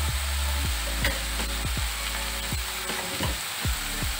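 Chopped banana flower, potato and prawn mixture frying in a steel kadai, a steady sizzle.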